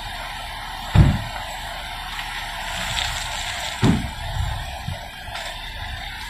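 Sheriff's Ford Explorer patrol SUV running as it starts to pull away from the curb, over street background noise. Two sharp low thumps about a second and about four seconds in.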